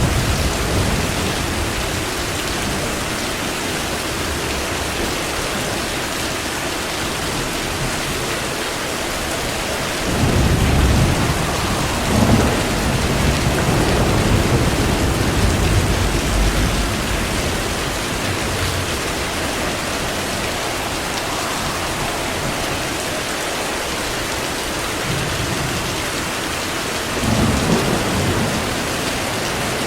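Steady heavy rain with rolls of thunder: a long rumble swells about ten seconds in and lasts several seconds, and another shorter rumble comes near the end.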